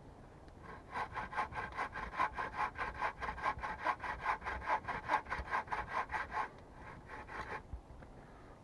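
Hand saw cutting through wood in quick, even back-and-forth strokes. The strokes start about a second in, stop after about six seconds, and a few fainter strokes follow.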